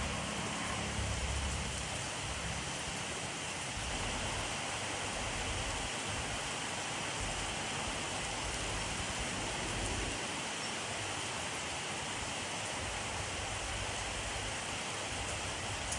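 Steady rainfall pattering on a surface, an even hiss of drops, with a soft low rumble that swells about a second in and again near the end.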